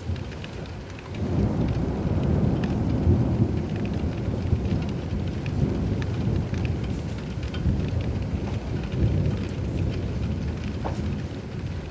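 Steady rain with scattered drops pattering, and a long low roll of thunder that swells about a second in and keeps rumbling.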